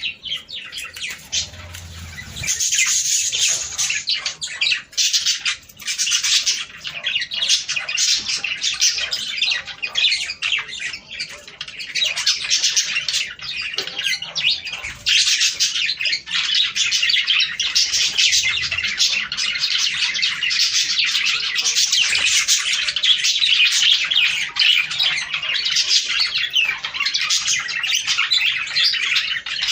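A flock of budgerigars chattering and warbling in a dense, unbroken stream of chirps, thinner for the first few seconds and busier from about halfway through.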